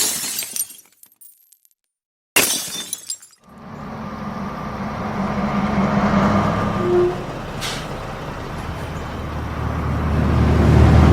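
Two brief crash-like sounds a couple of seconds apart, with dead silence between them, then the low, steady running of a vehicle engine that grows louder toward the end.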